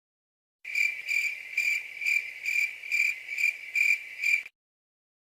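Cricket chirping in a steady pulse of about two chirps a second, starting about half a second in and cutting off sharply a second before the end. This is the familiar 'crickets' meme sound effect used to mark an awkward silence.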